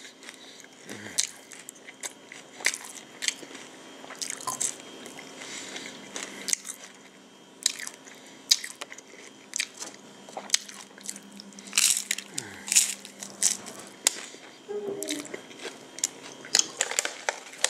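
Close-up eating sounds of a crunchy hard-shell taco being bitten and chewed: irregular sharp crunches every second or so, with a louder cluster about twelve seconds in.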